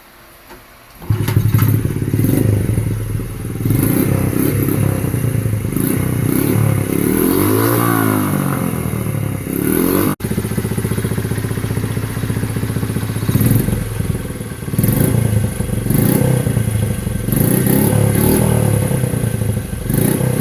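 1996 Honda Z50R's small single-cylinder four-stroke engine running through an aftermarket TB Parts performance exhaust, starting up about a second in. Its revs rise and fall once near the middle, and the throttle is blipped several times toward the end.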